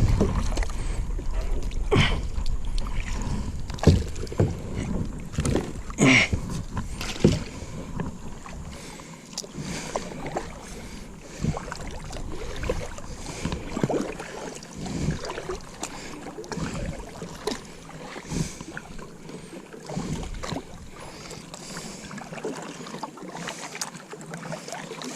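Kayak on the water: irregular paddle splashes and knocks against the hull. Wind rumbles on the microphone for the first several seconds, then dies away.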